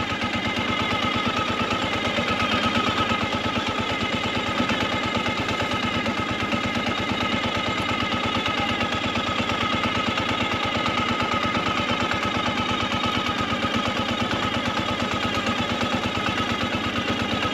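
Ural sidecar motorcycle's flat-twin engine running at low speed, a steady rapid beat of firing pulses as the outfit crawls along.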